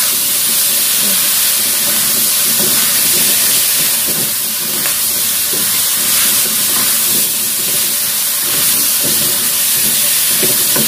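Chicken and potato pieces sizzling in a non-stick wok while being stirred and turned with a spatula: a steady, loud hiss with irregular scraping strokes of the spatula against the pan.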